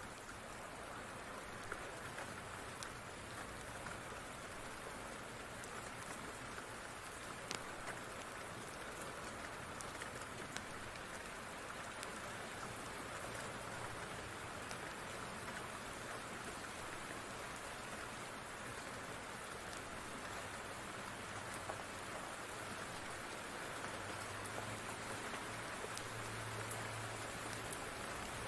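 Steady rain falling, with scattered sharp pops and ticks, and a low rumble that grows near the end.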